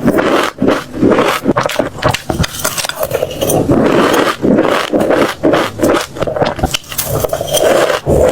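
Close-miked chewing of crunchy seeds: a dense run of crisp crackling crunches with brief pauses between bites.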